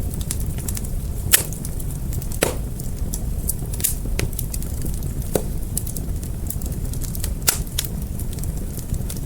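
Wood fire crackling: irregular sharp snaps and pops over a steady low rumble, with a handful of louder pops scattered through.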